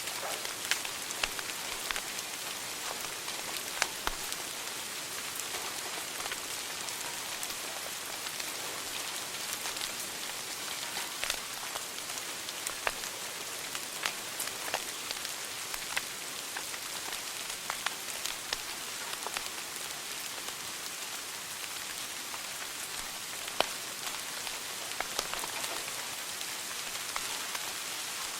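Wood fire burning in a fireplace: a steady hiss with frequent sharp crackles and pops scattered irregularly through it, a few of them louder than the rest.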